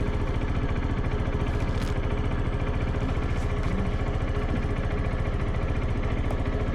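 SYM NH180 motorcycle engine running steadily, with an even, fast pulse.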